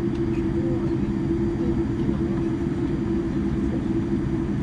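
Airliner taxiing, its engines making a steady drone with a strong held hum and a low rumble beneath.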